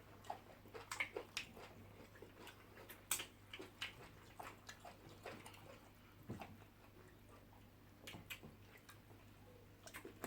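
Faint chewing and mouth sounds of someone eating banku with vegetable soup: scattered soft clicks and smacks, a few a second.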